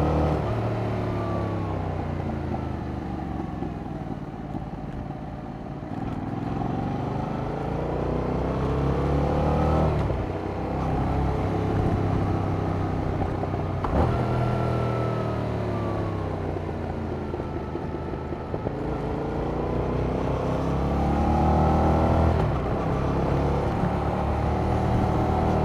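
Yamaha MT-07's 689 cc parallel-twin engine through its stock exhaust, ridden on a twisty road. The revs climb under acceleration and fall away off the throttle again and again, with a couple of sudden drops in pitch.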